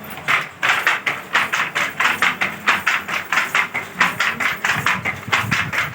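Handloom being worked: steady, rapid wooden clacking of the shuttle and beater, about three to four strokes a second.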